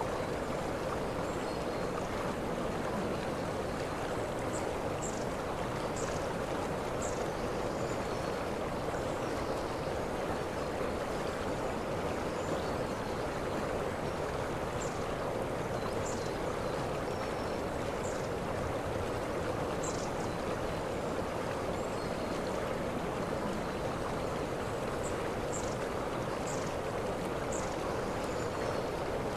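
Waterfall rushing steadily, with short high chirps sounding every second or two.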